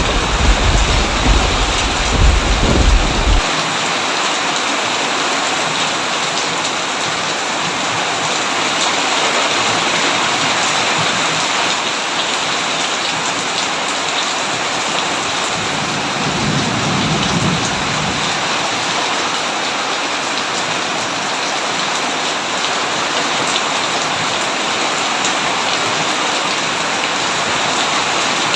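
Heavy rain falling steadily, with a low roll of thunder at the start that lasts about three seconds and a weaker rumble of thunder about halfway through.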